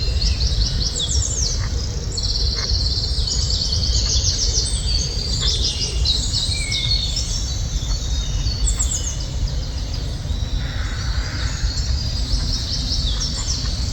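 A dense chorus of many small birds chirping and trilling rapidly and overlapping, over a steady low rumble.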